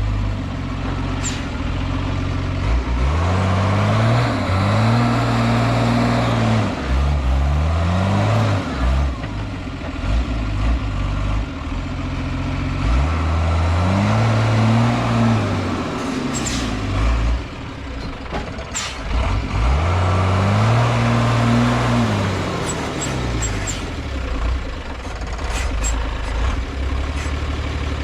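Unimog truck's diesel engine revving up and falling back again and again, about four times, with a few sharp knocks or rattles after the middle and near the end.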